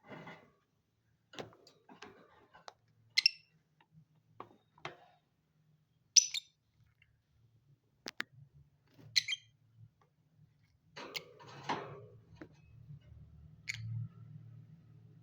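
Lovebirds giving short, sharp chirps every few seconds, among scratching, rustling and clicking. A faint low hum runs under the second half.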